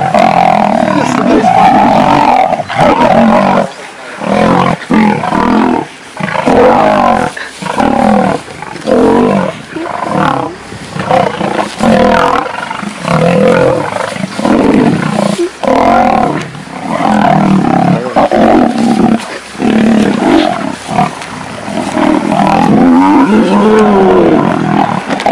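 Male lions fighting, their roars and snarls coming in repeated loud bursts with brief pauses.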